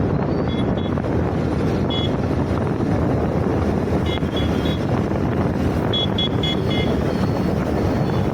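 Wind buffeting the microphone and road noise from a moving scooter ride in traffic. Short high horn toots sound several times: once about half a second in, again at about 2 s, a few near 4 s, and a quick run of toots around 6 s.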